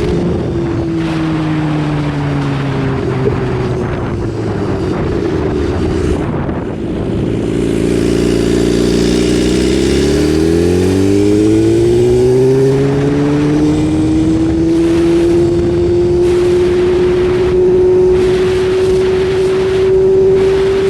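BMW S1000RR's inline-four engine on the move. Its revs fall over the first several seconds as the bike slows, stay low for a few seconds, climb as it accelerates about ten seconds in, then hold steady and high.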